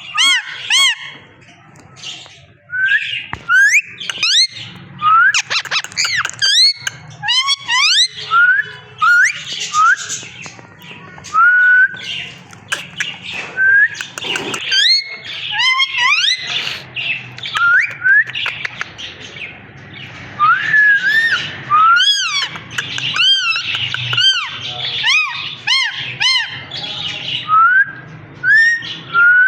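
Parrot whistling and squawking: a rapid, continuous run of short whistled notes, many sliding upward or arching, mixed with harsher squawks.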